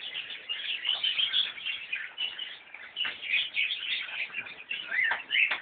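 A flock of cockatiels chirping continuously, many short high calls overlapping.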